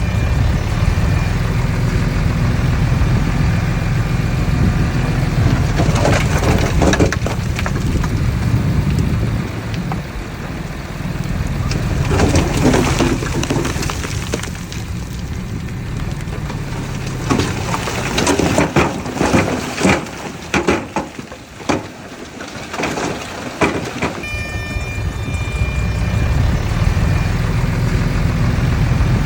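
Mitsubishi BD2F bulldozer's diesel engine running steadily. On top of it come repeated bursts of crunching and scraping, several seconds apart, as the machine works loose soil.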